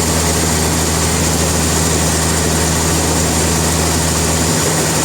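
Sawmill machinery running steadily: a low engine hum under an even, loud noise. The hum's lowest note shifts near the end.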